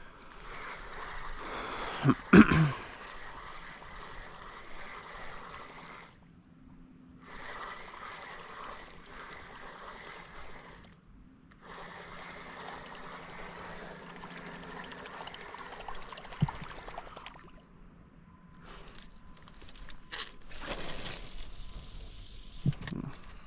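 Water trickling and splashing close by, broken by a few sharp knocks; the loudest knocks come about two seconds in.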